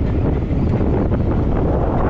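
Wind buffeting the microphone: a loud, steady, dense rumble with no clear pitch.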